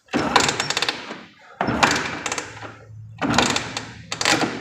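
Three bursts of clattering mechanical noise, each about a second long and full of sharp clicks.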